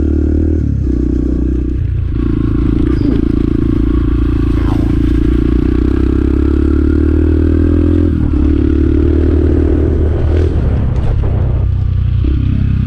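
Motorcycle engine running steadily under way, with brief dips in engine speed a few times and a couple of short knocks near the end.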